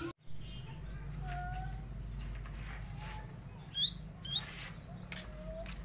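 Pet bird chirping: a few short, faint whistled notes and two sharp, high chirps close together about four seconds in, over a steady low rumble.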